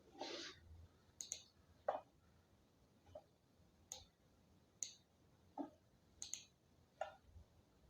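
Faint, irregular computer mouse clicks, about one a second, as columns are resized and cells selected in scheduling software, with near silence between them.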